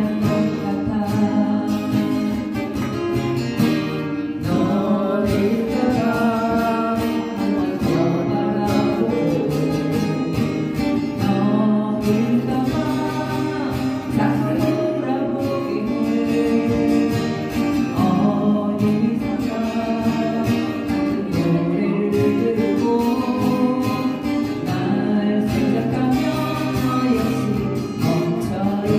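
A song sung with acoustic guitar accompaniment.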